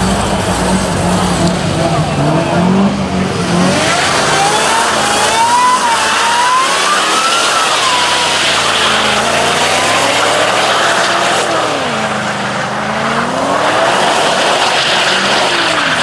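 V8 muscle car engine revving hard during a burnout: a low steady note at first, then the pitch climbs from about four seconds in and rises and falls as the throttle is worked, over a steady hiss of spinning tyres.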